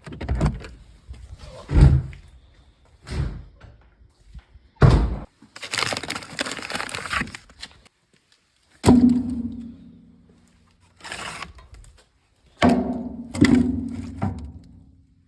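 A series of heavy thunks and bangs, several of them ringing on afterwards like struck metal, with a stretch of hissing noise in the middle.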